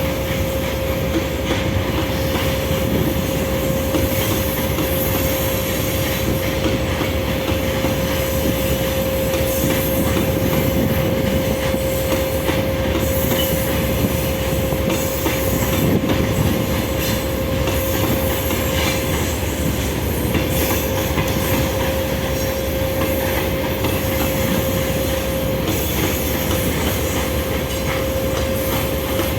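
Train running along the track: a steady rumble with a continuous high whine held on one pitch.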